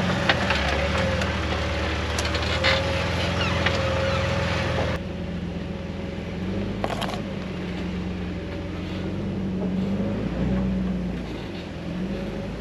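Jeep engine running steadily while driving a bumpy dirt trail, with a thin steady whine. Scattered clicks and knocks sound over a hiss for the first five seconds, and the hiss drops away suddenly about five seconds in.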